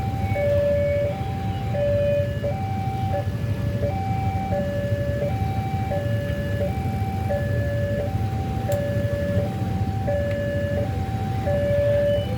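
Railway level-crossing alarm sounding a two-tone electronic signal, a high and a low tone alternating steadily, each held about half a second: the warning that a train is approaching and the barriers are down. A low hum of road traffic runs underneath.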